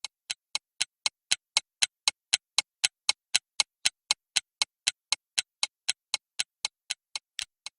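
Clock-like ticking sound effect, about four even ticks a second, swelling in at the start and fading away near the end. It times the pause in which the learner repeats the word.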